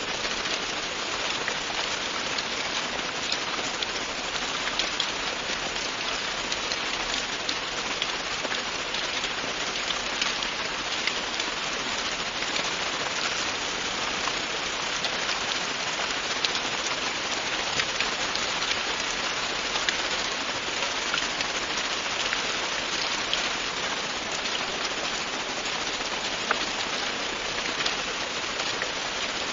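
Steady, continuous rain falling, with a dense patter of individual drops ticking on a surface.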